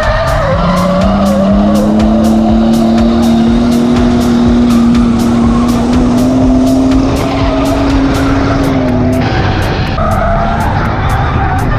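Ford AU Falcon drift car's engine held at high, nearly steady revs through a long slide, with tyre noise. The revs climb just after the start and drop away about nine seconds in.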